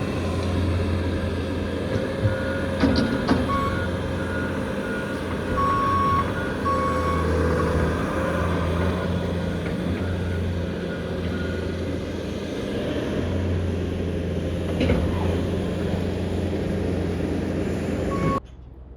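A heavy vehicle's engine running steadily with a low hum, joined by a run of short, evenly spaced beeps and a few longer tones. The sound cuts off abruptly near the end.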